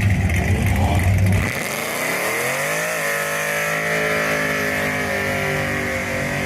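Car engine rumbling, then revving up with a rising pitch about a second and a half in and holding at a steady high pitch.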